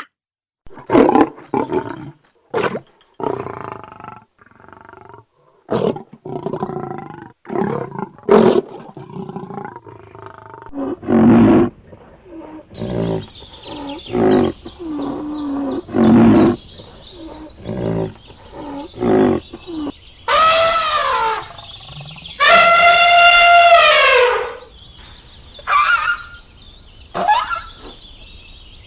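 A series of different animal calls, one clip after another: many short calls in the first half, then two long pitched calls, the second held about two seconds and dropping in pitch at the end.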